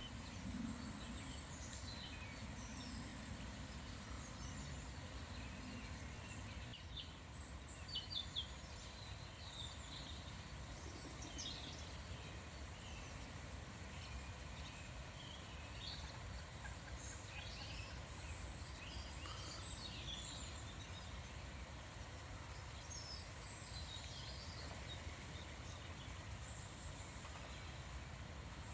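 Several small songbirds chirping and calling, scattered short high notes with a brief louder cluster of calls about eight seconds in, over a steady low background rumble.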